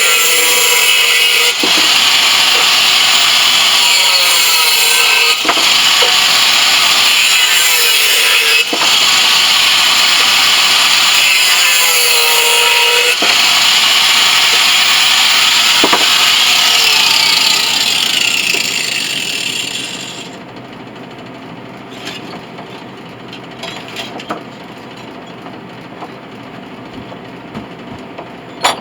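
A power tool running loudly and steadily, then winding down and stopping about 19 seconds in. Light metal clinks and clicks follow, with one sharper click near the end.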